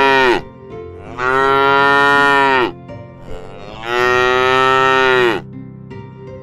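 Cow mooing: a short call at the start, then two long moos of about a second and a half each, every call dropping in pitch as it ends.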